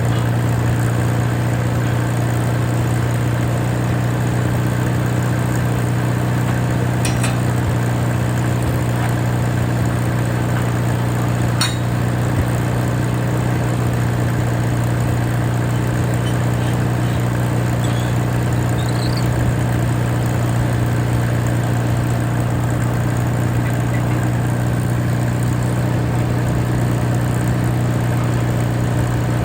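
Allis-Chalmers WD tractor engine running at a steady speed, with a constant low hum and a couple of faint clinks.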